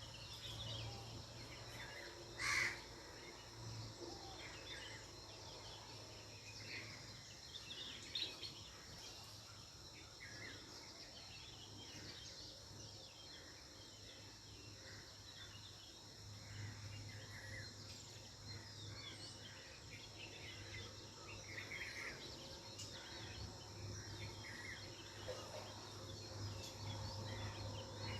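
Faint natural ambience: scattered bird chirps over a steady insect drone, with a low hum underneath. One short, louder sound comes about two and a half seconds in.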